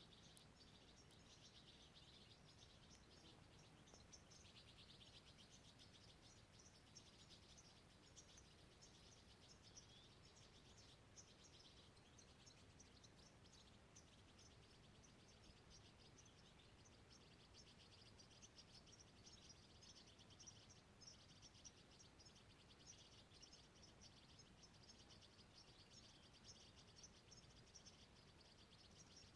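Very faint outdoor natural ambience: a continuous chorus of rapid, high chirps and trills from birds or insects over a low hiss.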